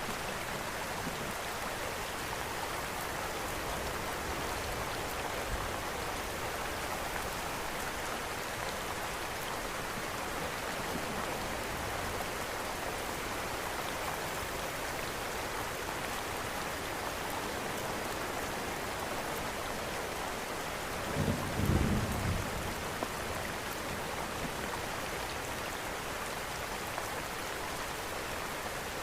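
Steady rain mixed with a crackling fireplace, with one short low rumble about two-thirds of the way through.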